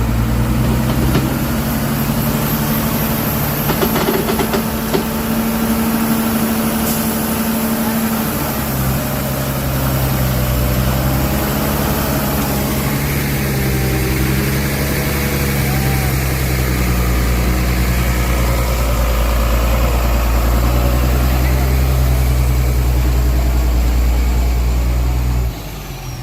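Heavy truck's diesel engine running hard, its pitch stepping up and down as the revs change, then dropping away suddenly near the end.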